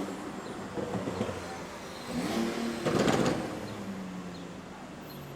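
City street traffic, with a motor vehicle passing close by. Its sound swells to a peak about three seconds in and fades away.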